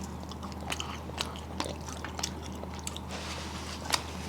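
A person chewing food close to the microphone, with many small mouth clicks and smacks and a slightly louder click near the end, over a steady low hum.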